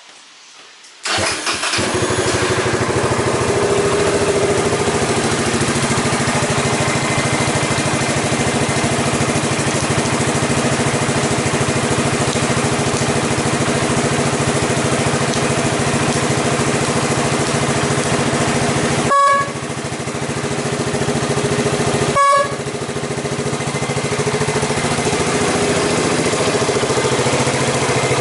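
Honda FTR223's air-cooled single-cylinder four-stroke engine, breathing through an aftermarket Supertrapp muffler, starting about a second in and then running steadily. Twice near the end, about three seconds apart, the sound briefly breaks.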